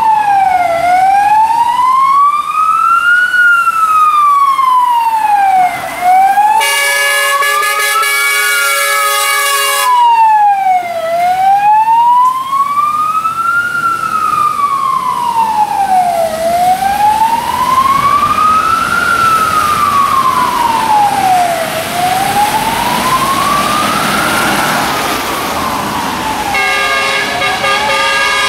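Fire engine siren on a slow wail, its pitch rising and falling about every five seconds. A fire truck's horn sounds for about three seconds a quarter of the way in and again near the end.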